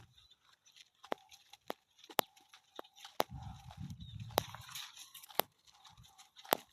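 Footsteps along a dry farm path: sharp, irregular crunching clicks about one a second, with a low rumble in the middle.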